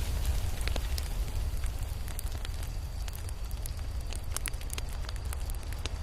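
Crackling fire: scattered sharp pops and snaps over a steady low rumble.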